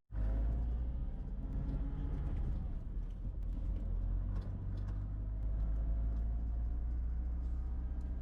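A car being driven, heard from inside the cabin: a steady low engine and road rumble, with a faint whine that slowly rises in pitch as the car picks up speed.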